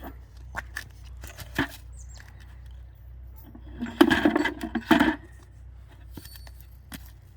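Scattered knocks and metallic clinks of tools and wood being handled, with a louder cluster of knocks about four and five seconds in.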